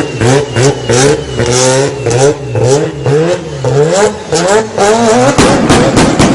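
Car with a loud modified exhaust being revved in quick blips, about two a second, the engine note rising and falling each time, with sharp exhaust pops between revs. A little after five seconds in, it changes to a rougher, steadier rasp.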